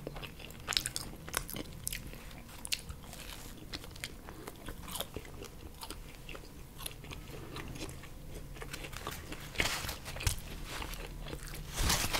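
Close-miked chewing of plain, unfilled pizza crust, with wet mouth clicks and soft crunches. Near the end a paper napkin rustles.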